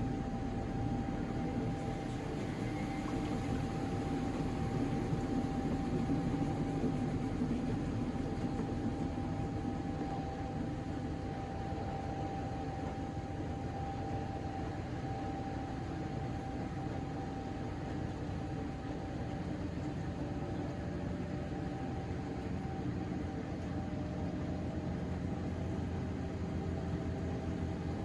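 Miele Novotronic W913 washing machine running through its drain-and-spin cycle after the second rinse: a steady mechanical hum with a constant whine.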